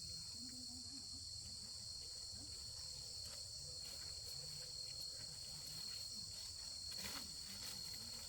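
Steady, high-pitched chorus of insects buzzing, with a brief knock about seven seconds in.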